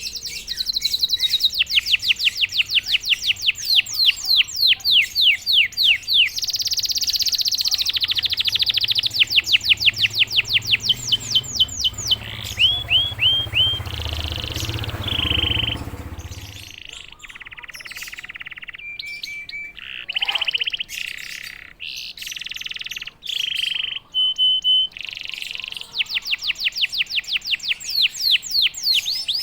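Domestic canary singing: long fast trills of repeated falling notes, broken into varied phrases with slower rolls and short held whistled notes.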